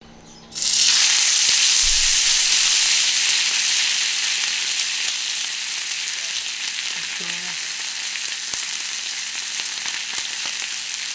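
A thick sirloin steak sizzling on a hot iron plate. The sizzle starts suddenly just under a second in, is loudest for the first couple of seconds, then settles a little.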